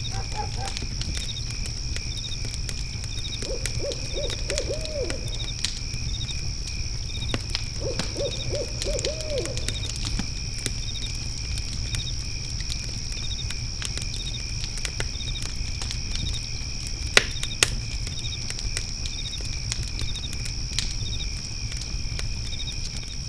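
Layered backyard night ambience: a fire pit crackling with scattered pops, two louder pops about 17 seconds in, over a steady insect drone and a cricket chirping about once a second. An owl hoots twice, each time a quick run of four or five notes.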